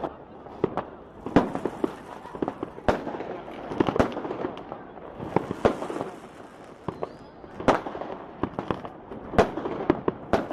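New Year fireworks going off: a loud, sharp rocket bang every second or two among many smaller ones, over a continuous din of more fireworks.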